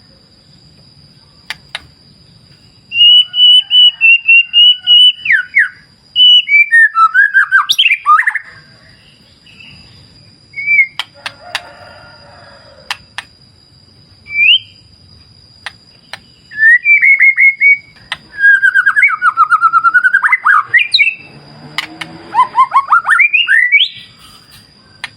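White-rumped shama singing loud bouts of rapid repeated whistled notes and sweeping phrases, four main bursts with single notes between them. A thin steady high-pitched tone runs under it.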